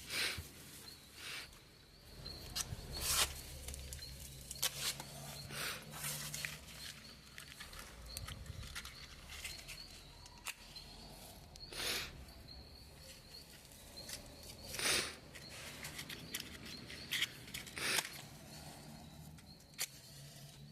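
Campfire of firewood and paper being built and lit: irregular sharp crackles and rustles, about ten over the stretch, the loudest a few seconds in. A faint high chirping repeats throughout.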